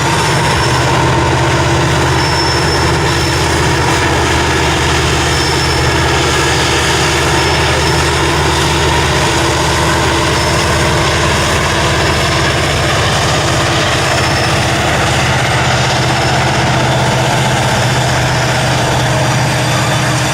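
Diesel locomotive engine running steadily with a low, even drone.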